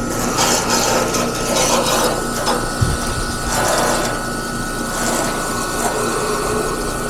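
Garden hose spraying water onto an outdoor HVAC condenser unit's coil, a hiss that swells and fades in irregular surges as the spray moves. A steady hum runs underneath.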